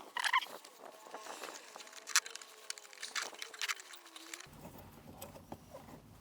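Scattered light clicks and knocks of hands and a rubber fan belt being worked off a Kubota engine past its fan, with a faint wavering whine in the background. A steady low hum starts abruptly about two-thirds of the way in.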